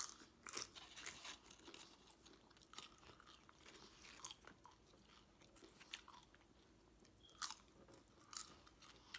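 Faint close-miked chewing of food, with scattered short, sharp crunchy clicks.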